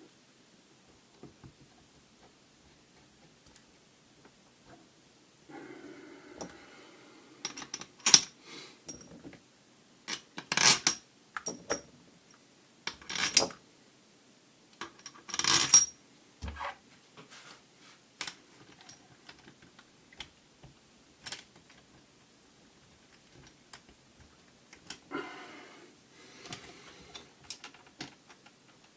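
Hard plastic and metal parts of a Kärcher K5 pressure washer being handled and fitted together during reassembly: scattered clicks and clacks, with a handful of sharp, loud knocks in the middle.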